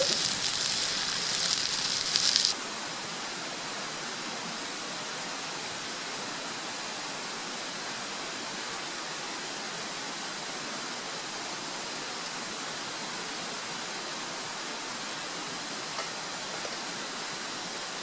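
Steak sizzling over a campfire for about two and a half seconds, then cut off suddenly; after it a steady, even hiss carries on.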